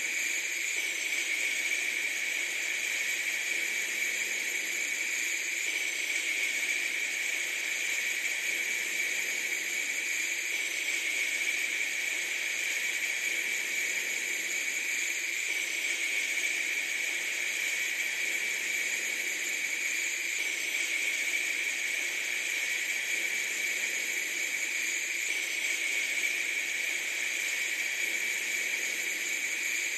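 Steady, even hiss of noise with no break, whose texture shifts slightly about every five seconds, as a looped recording does.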